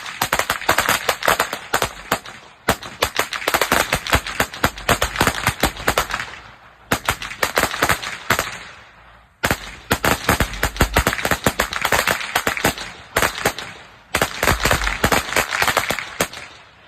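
Strings of firecrackers going off in rapid, dense crackling bangs. The crackling fades and then starts again suddenly several times.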